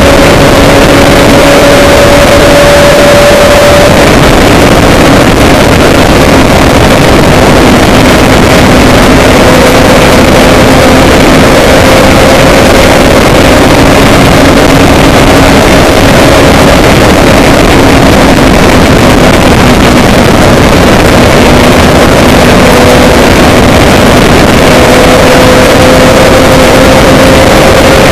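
Loud, steady rushing noise with a low engine hum underneath whose pitch drifts slightly up and down, as from a running vehicle.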